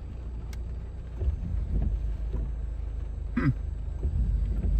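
Subaru Outback rolling slowly over a dirt road, heard inside the cabin as a steady low road and engine rumble with a few light bumps. A brief falling squeak comes about three and a half seconds in.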